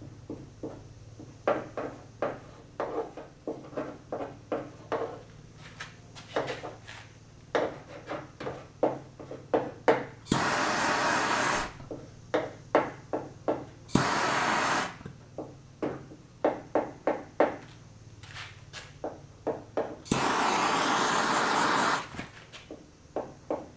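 Lead body-filling work on a car trunk panel: runs of short rubbing and scraping strokes on the metal, about two or three a second, broken three times by a loud steady rushing hiss of heat being applied, one to two seconds at a time, which cuts in and out abruptly.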